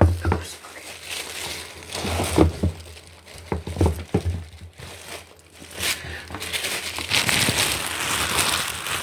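Crinkling and rustling of material being handled, with a few soft thumps in the first half and a denser, steadier crinkle over the last few seconds.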